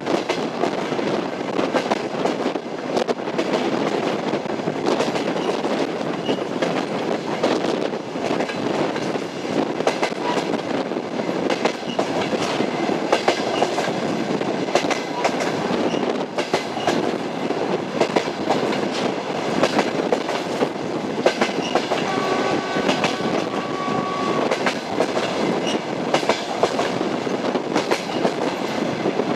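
Passenger train running on rails, its wheels clattering steadily over the rail joints. A brief steady tone sounds for a couple of seconds about three-quarters of the way through.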